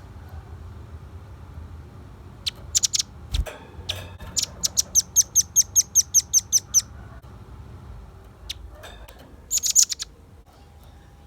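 Velvet-fronted nuthatch calling: a few sharp, high chips, then a rapid run of about a dozen high notes at roughly six a second, and another short burst near the end. A single knock sounds between the first chips and the run, over a low steady hum.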